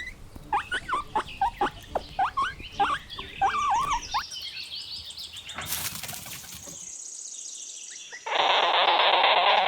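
Guinea pig squeaking: a quick series of short squeaks that bend up and down in pitch through the first few seconds, followed by fainter high chirps. A loud, steady hissing noise starts about eight seconds in.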